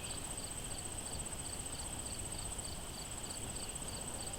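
Insects, likely crickets, trilling steadily: one continuous high-pitched trill with a second insect chirping about three times a second.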